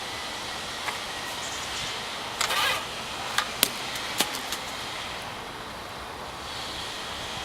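A broom handle being worked through a clogged plastic vacuum hose, making a short scraping rustle about two and a half seconds in, then a few sharp clicks and knocks, over a steady background hiss.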